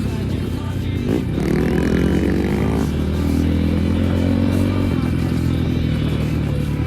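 Enduro motorcycle engine running, revving up with rising pitch about a second in and then settling back to a steady run.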